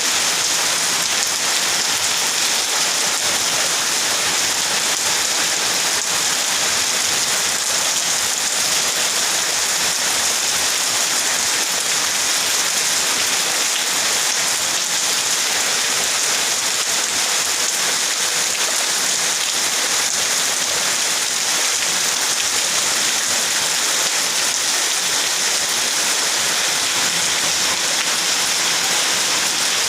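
Heavy rain falling steadily: a dense, even hiss that holds at the same level with no let-up.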